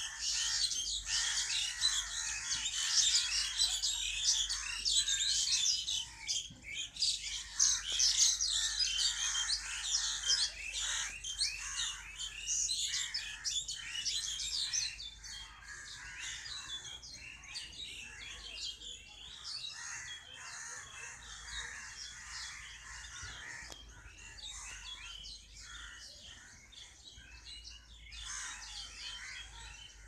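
Many small birds chirping and twittering at once in the trees, a dense rapid chatter of high calls that is louder for the first half and thins out and grows fainter after that.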